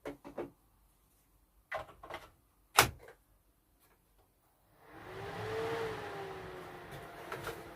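A few sharp knocks and clacks, the loudest about three seconds in. From about five seconds a steady hum with a pitched tone sets in, rising slightly and then easing.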